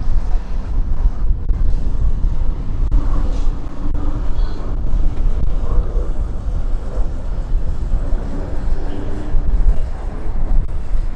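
Lockheed P-38 Lightning's twin Allison V-12 engines running during its display, a deep, uneven rumble with a faint engine tone above it.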